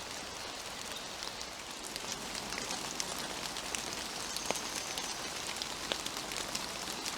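Gentle rain dripping in woodland: a steady soft hiss dotted with irregular individual drip ticks on leaves.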